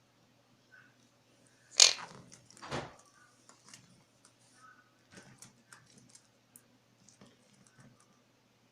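Baby quaker parrot (monk parakeet) handling and biting at an object: two loud clatters about two seconds in, then scattered small clicks and taps from its beak.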